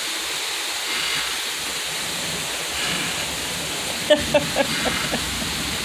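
Heavy tropical-storm rain falling steadily, a constant hiss. Between about four and five seconds in, a quick run of short squeaky clicks cuts through it.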